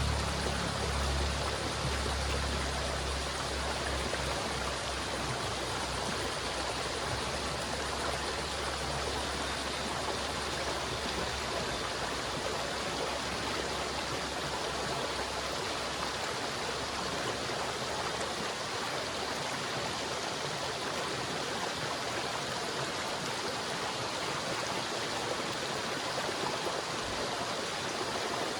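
River water flowing and rushing steadily, an even wash of noise. A low rumble underneath fades away about halfway through.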